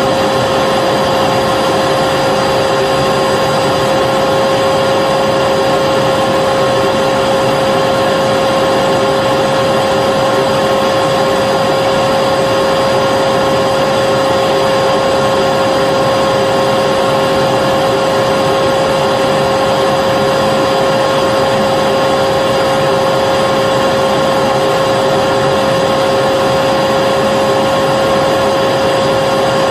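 Vacuum cleaner running steadily, a dense whooshing motor noise with a constant whine held at one pitch.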